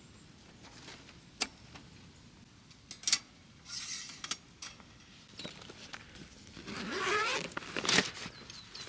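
A zipper being drawn in one long pull about seven seconds in, with scattered clicks and knocks of gear being handled before and after.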